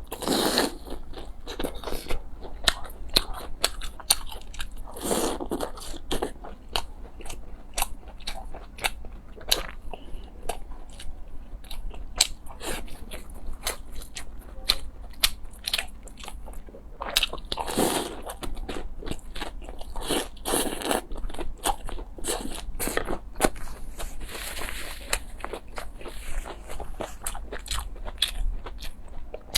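Close-miked eating sounds: a steady run of crunchy bites and chewing, with sharp crackly clicks throughout and a few louder, longer mouthfuls.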